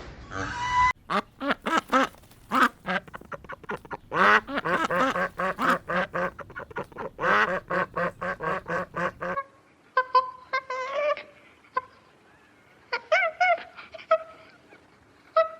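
Ducks quacking: a dense run of rapid, overlapping quacks, then scattered quacks over a quieter background in the last third.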